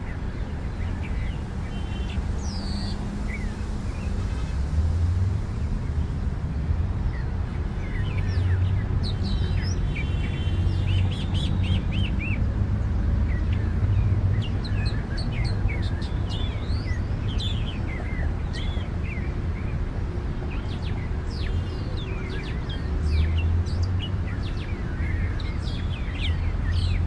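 Birds chirping and calling, with many short high calls scattered throughout, over a steady low rumble.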